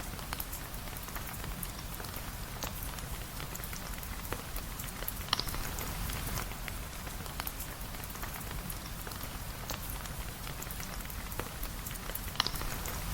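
Steady rain, an even hiss over a low rumble, with scattered sharp ticks and drips throughout; two louder sharp taps come about five seconds in and near the end.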